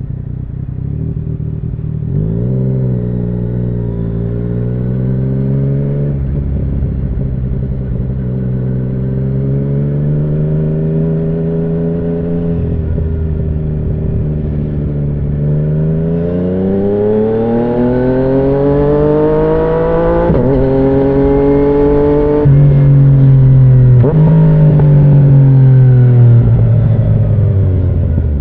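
2017 Yamaha MT-09's three-cylinder engine through an Akrapovic Racing Line carbon full exhaust, riding and accelerating. The note rises early on, holds, then climbs higher with two abrupt breaks about two-thirds of the way through, and falls away near the end.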